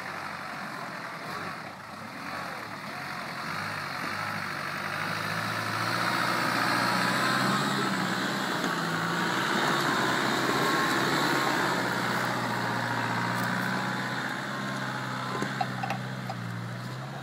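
Land Rover 4x4 engine running at low revs under load as it crawls over a rough, rutted dirt track, growing louder as it passes close by. A couple of sharp knocks come near the end.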